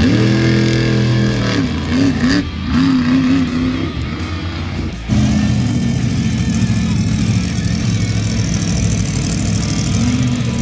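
Engine revving: its pitch rises at the start, holds, then wavers up and down. About five seconds in it breaks off abruptly and gives way to a steadier engine drone.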